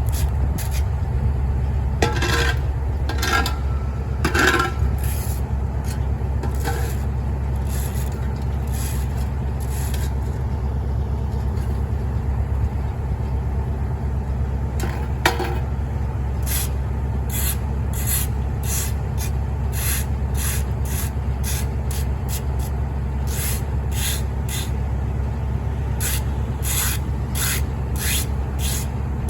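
A heavy truck engine running steadily under repeated short scraping strokes, a few early on and then quick strokes, two or three a second, through the second half, typical of cleanup work sweeping or scraping debris.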